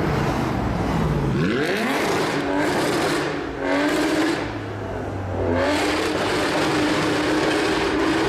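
Loud sports-car engines revving and accelerating: the engine note falls, then climbs steeply about a second in, dips, and climbs again about five and a half seconds in to a steady high note.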